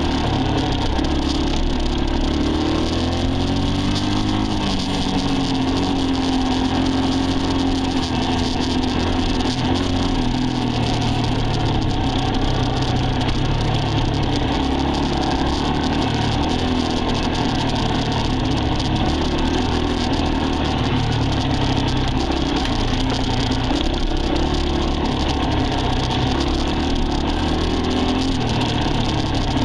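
Dirt bike engine running as the bike is ridden, its pitch rising and falling a few seconds in, over a steady rushing noise.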